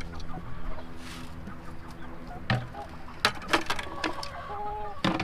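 Chickens clucking and calling, with a few sharp knocks in between.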